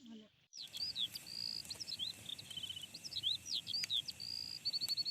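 Songbird singing in the morning: quick whistled notes sweeping up and down, phrases repeated, with short rapid trills about midway and near the end, over a faint steady hiss.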